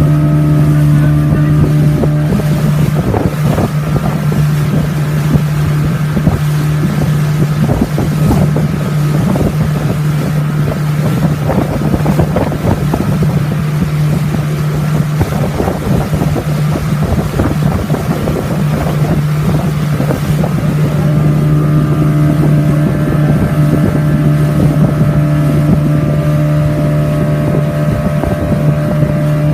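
Motorboat engine running steadily at cruising speed with a constant hum. From a couple of seconds in until about two-thirds of the way through, choppy water and wind noise rise over it, then ease off.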